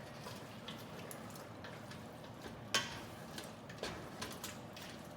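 Faint, scattered light clicks and taps of utensils and dishes, with one sharper tap a little before the middle.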